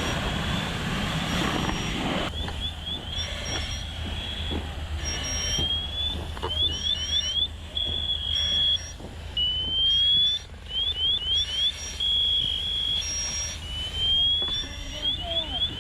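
High-pitched electronic alarm cycling through a steady tone, a slow rising sweep and sets of four quick rising chirps, over a steady low engine hum. A loud rushing noise cuts off about two seconds in.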